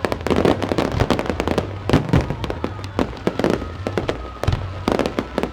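Fireworks display: a rapid, irregular run of bangs and crackling reports, some bunched close together and some single, over a steady low rumble.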